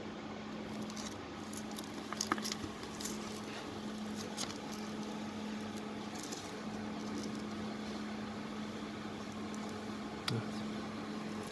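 Steady low machine hum with scattered light clicks and ticks, one more distinct knock about ten seconds in.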